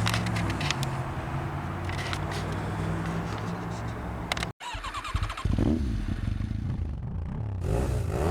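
An engine idling steadily, with light clicks and clatter on top; about four and a half seconds in the sound cuts off abruptly, then picks up again with a different low rumble and knocking.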